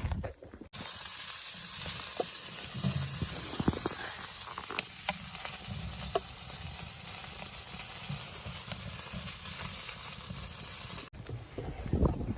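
Food sizzling in a hot pan: a steady sizzle with scattered pops and crackles. It starts abruptly just under a second in and cuts off about a second before the end.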